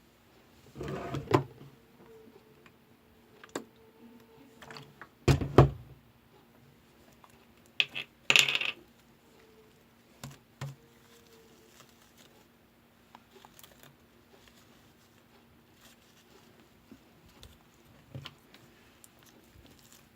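Slime being handled by hand: scattered sticky clicks and squelches, the loudest a little over five seconds in and again about eight seconds in, over a faint steady hum.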